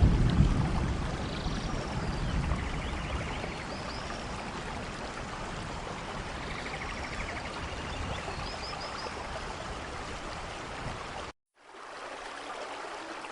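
Steady rainforest rain with running water, and a few high chirping calls over it. The sound cuts out abruptly for a moment about eleven seconds in, then returns quieter.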